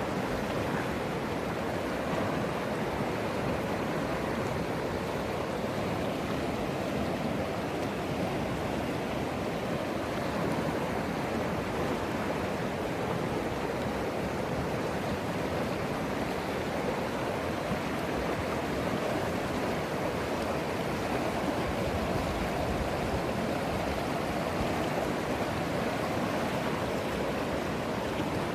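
East Fork San Gabriel River running high in flood after heavy rain: a steady, unbroken rush of fast water.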